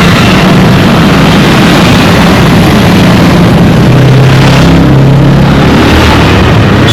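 Dense road traffic noise with vehicle engines running, a low engine hum stepping up in pitch about four seconds in.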